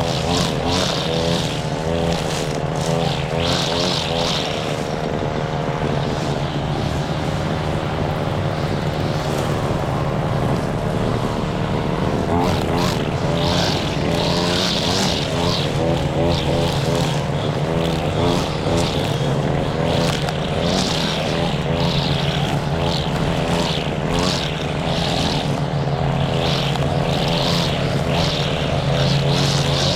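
Riding lawn mower engine running steadily at working speed while mowing, its pitch wavering slightly under load.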